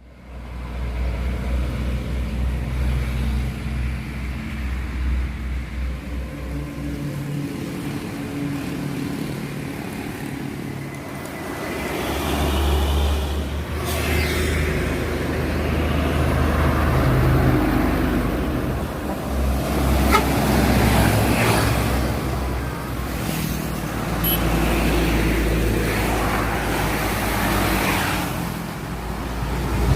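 Highway traffic with heavy trucks passing: engines running and tyres on the road, louder from about twelve seconds in.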